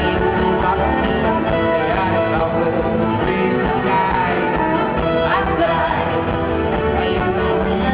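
A live folk-rock band playing: fiddle and guitar over bass and drums, with some singing. The sound is dull, with the top end cut off.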